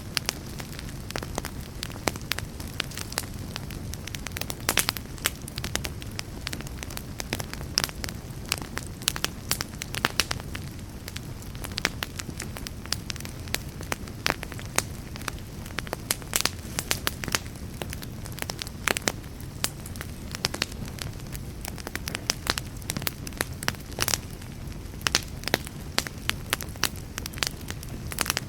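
Wood fire burning with a steady low rumble and frequent sharp crackles and pops of different sizes throughout.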